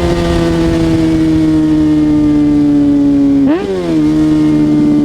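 Kawasaki ZX-6R 636 inline-four engine under way, its note slowly falling as the bike slows. About three and a half seconds in the sound dips briefly and the revs jump up sharply: a downshift. The engine note then settles and falls slowly again.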